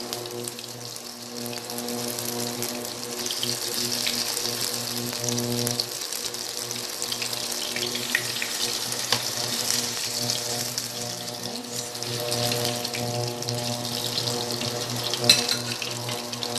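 Marinated beef slices sizzling in hot oil in a nonstick wok as they are stirred and turned, a steady crackling fizz. A steady low hum runs underneath, and a utensil taps sharply once near the end.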